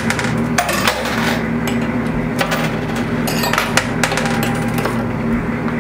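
Quarters clinking and clattering in a coin pusher machine, a scatter of irregular sharp metallic clicks over a steady machine hum.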